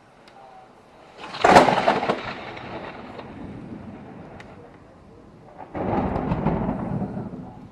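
Thunder: a sharp, close crack about a second and a half in that rolls off into a fading rumble, then a second burst of rumbling thunder near the end.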